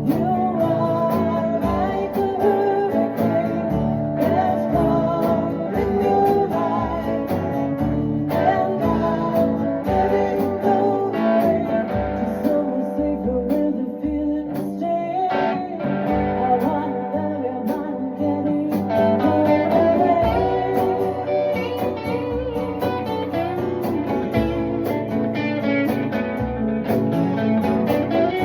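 Guitar-led music, with plucked guitar lines over a steady low beat.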